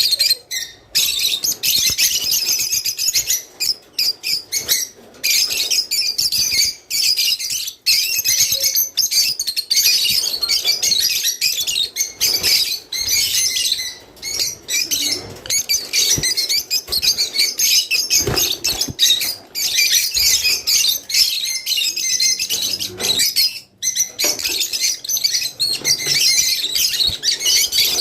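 A flock of rosy-faced lovebirds chattering: a dense, continuous stream of rapid, high-pitched chirps and squeaks from many birds at once, with only brief pauses.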